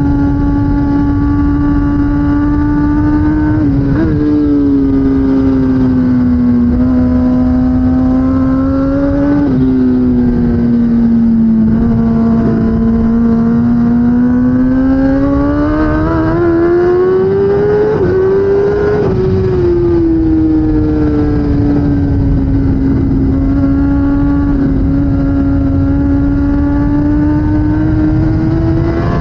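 Kawasaki ZX10R inline-four sportbike engine running hard at racing revs over a constant rush of wind noise. Its pitch steps abruptly at gear changes about four, nine and nineteen seconds in, climbs steadily for several seconds under acceleration, and holds level for a while near the end.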